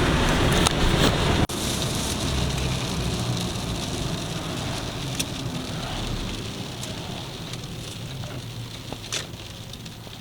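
Vehicle road noise that cuts off suddenly about a second and a half in, then steady rain with scattered drop ticks, slowly growing fainter.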